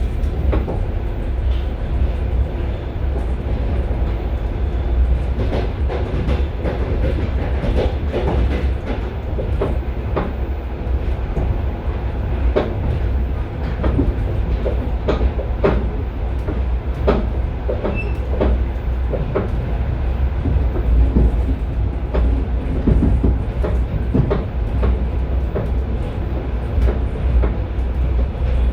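A moving passenger train heard from inside the carriage vestibule: a steady low rumble of the running gear, with the knocks and clacks of wheels over rail joints and points coming irregularly.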